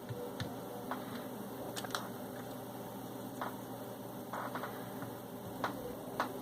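Scattered light clicks and taps as small plastic and metal parts of a VCR tape mechanism are handled and fitted into place, with a steady low hum underneath.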